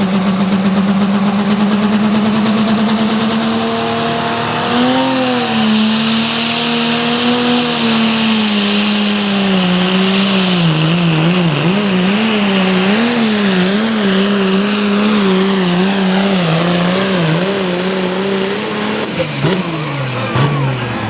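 Farmall super stock pulling tractor's turbocharged diesel running flat out under load while pulling the sled. Its pitch holds steady and creeps up, then wavers up and down from about five seconds in, and falls away near the end as it backs off.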